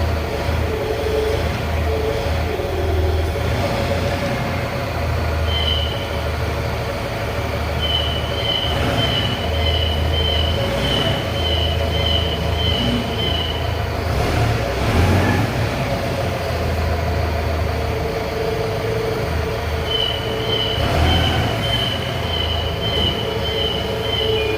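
Forklift truck running with a steady low engine rumble, and its high-pitched warning beeper sounding about twice a second in two long stretches, first from about five seconds in and again near the end.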